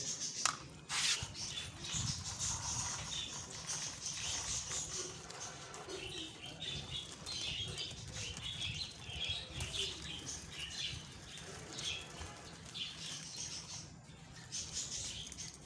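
Small birds chirping rapidly over continual rustling and scraping, with a couple of sharp clicks near the start.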